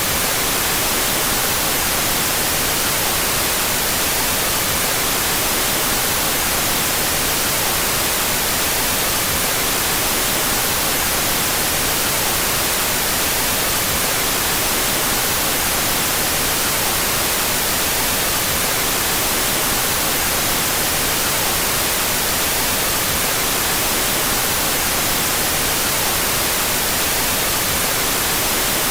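Generated white noise, played with the left and right channels out of phase: a steady, even hiss strongest in the high frequencies, unchanging throughout.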